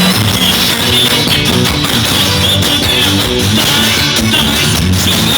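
Live band music: an instrumental passage led by guitar, with no singing.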